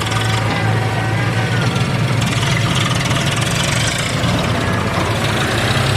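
Heavy diesel engine idling steadily with a constant low hum.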